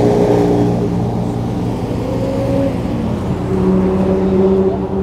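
Car engines running as cars drive slowly past through a parking lot. One engine note rises briefly about two seconds in, and another car's steadier engine note takes over about halfway through.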